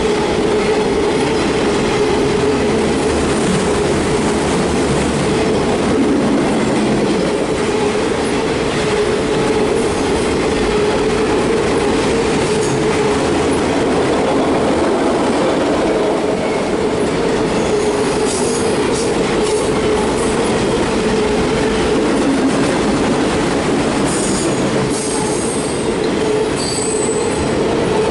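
CSX autorack freight train rolling past, a steady rumble of cars on the rails with some clickety-clack, and brief high-pitched wheel squeal in the last few seconds.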